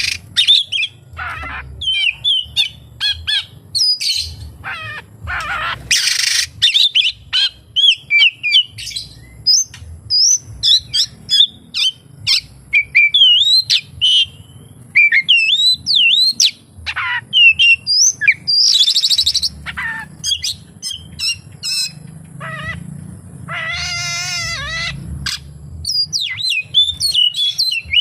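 Oriental magpie-robin (kacer) singing a fast, varied song of short whistles, chirps and trills, with a few harsh buzzy phrases mixed in. This is the kacer's mimicked song repertoire ('isian').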